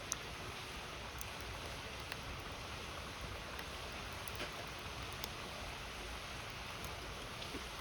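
Steady rushing of river water, with a wood campfire giving sharp crackles and pops every second or so.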